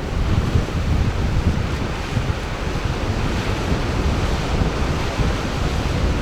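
Ocean surf washing steadily, with wind buffeting the microphone in a low, uneven rumble.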